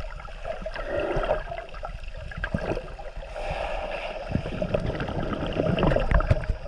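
Water sloshing and gurgling close to the microphone, with scattered short knocks and splashes.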